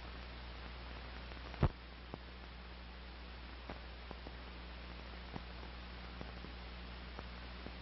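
Old film soundtrack noise: steady hiss with a low mains hum, broken by scattered faint clicks and one louder pop about a second and a half in.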